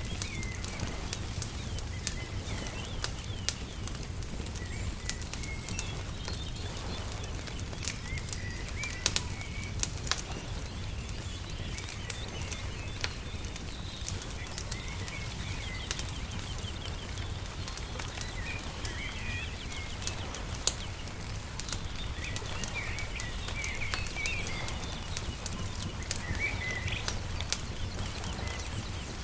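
Wood fire crackling with frequent sharp pops over a steady low rumble, while small birds chirp in short calls throughout.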